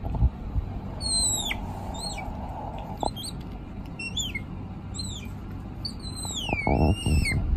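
A bird calling: about six high, whistled notes that fall in pitch, the last one long and wavering, over low rustling that swells near the end.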